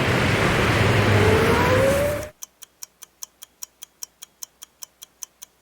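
A race car's engine running loudly, its pitch rising, cut off abruptly about two seconds in. A countdown timer's clock ticking quickly follows, about five ticks a second.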